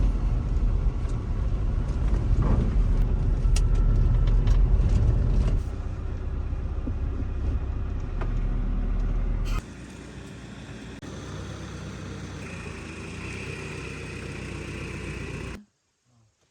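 Truck engine running, heard in several abruptly cut segments that drop in loudness step by step, with a high-pitched whine joining in the last few seconds before it cuts off suddenly.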